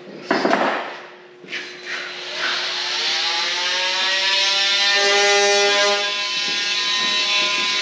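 Oscillating multi-tool starting up with a rising whine that settles into a steady buzzing drone as it cuts. Two short clunks of handling come just before it starts.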